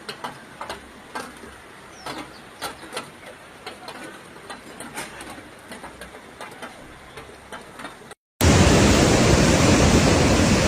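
Faint irregular knocks and clatter over a low hiss, then, after an abrupt cut about eight seconds in, a loud steady rush of floodwater.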